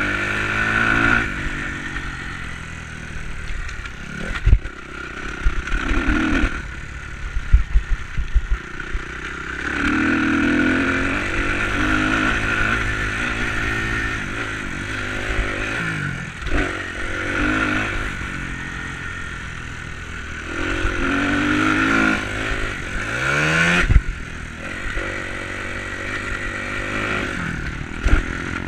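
Enduro motorcycle engine revving up and down repeatedly as it is ridden, its pitch climbing sharply several times. Sharp knocks and clatter come between about four and nine seconds in and once more near the end.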